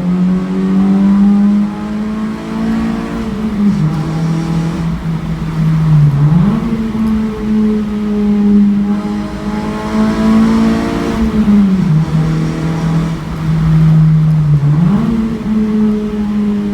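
Honda CR-Z's 1.5-litre i-VTEC four-cylinder running loudly through a 5zigen Fireball aftermarket muffler, echoing in a tunnel. The engine is held at steady revs; its note drops about four seconds in, climbs back a couple of seconds later, then does the same again near twelve and fifteen seconds.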